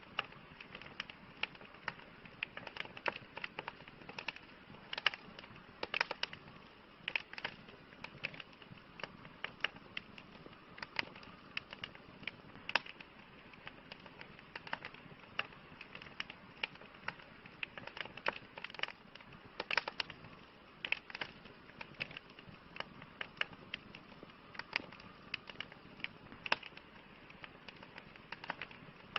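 Campfire crackling: irregular sharp pops and snaps, several a second at times, over a soft steady hiss.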